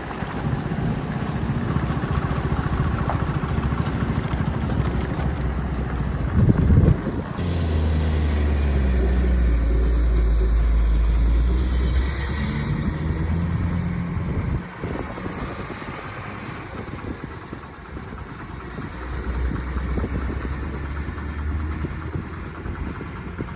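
Heavy diesel engine running, with a heavier low rumble for a few seconds partway through before it eases back.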